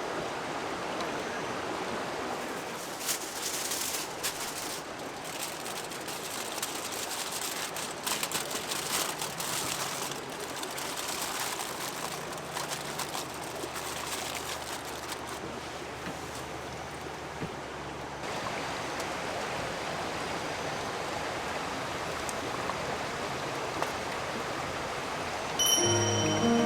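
Steady rushing of a river or stream, with scattered clicks and rustles of handling close by from about three to eighteen seconds in. Music starts near the end.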